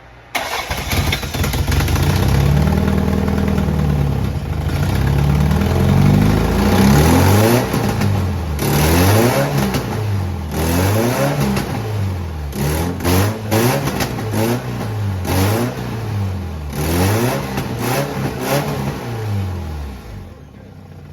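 Toyota Celica's newly installed engine starting up and running, then revved again and again, rising and falling in pitch about once a second, before settling back near the end.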